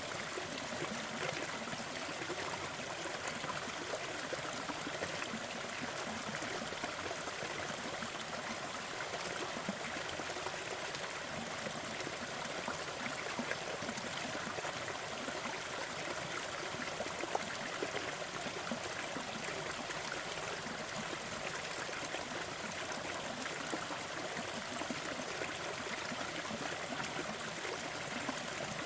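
Waterfall water running and splashing in a steady, unbroken rush, strongest in the higher pitches.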